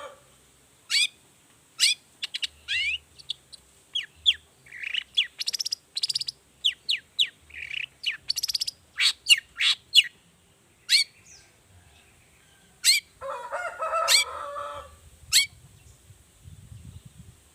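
Long-tailed shrike (cendet) singing: a rapid run of sharp chirps and quick falling whistles with short gaps, then a few single notes, and a lower, harsher call about two-thirds of the way through.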